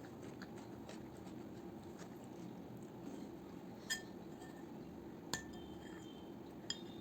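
Three light clinks of tableware, each with a short ring, over a steady low background hum.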